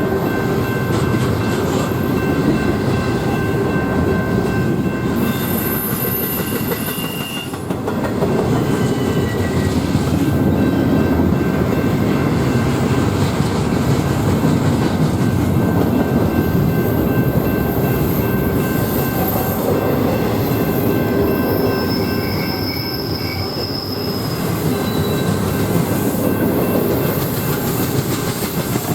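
Train passing, its steel wheels rumbling steadily on the rails, with thin high wheel squeals running above the rumble.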